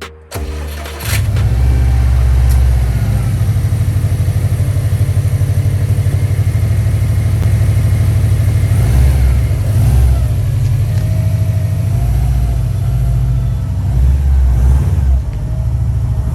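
Car engine starting about a second in, then running with a deep, steady rumble and a couple of brief rises and falls in pitch.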